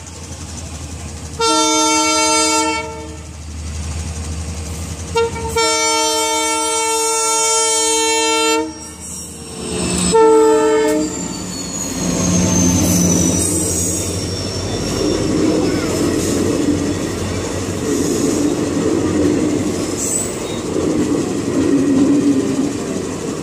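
Indian Railways diesel locomotive sounding three horn blasts, the middle one the longest, as a warning at a level crossing. It then passes close by with a loud engine rumble, and its passenger coaches roll past on the rails.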